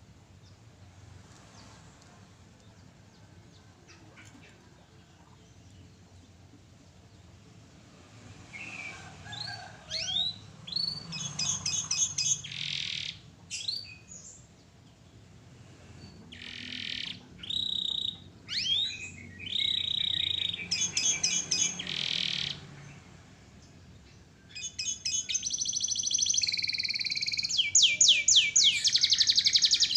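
Domestic canary singing. After several faint seconds the song comes in bouts of quick high phrases and rapid trills from about eight seconds in, with two short pauses, then turns loud and continuous with fast trills over the last five seconds.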